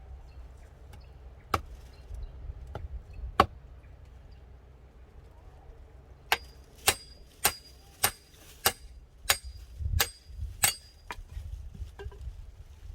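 Wood being struck hard with a metal tool: two separate strikes early, then a steady run of about eight sharp blows, a little under two a second, each with a slight metallic ring.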